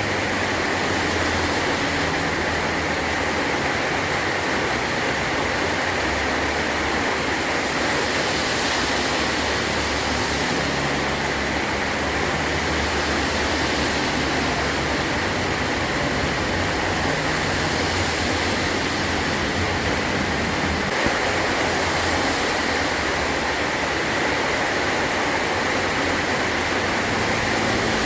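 Heavy rain falling steadily on a metal roof, a dense unbroken hiss with a low rumble that swells and fades underneath.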